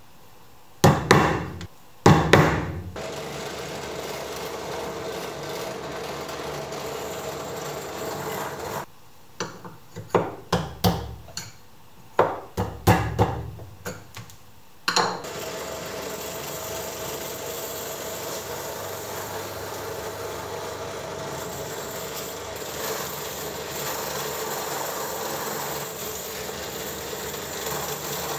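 Woodworking with hand tools: sharp hammer blows on wood, two near the start and a quick run of them about halfway through, between long stretches of steady tool noise.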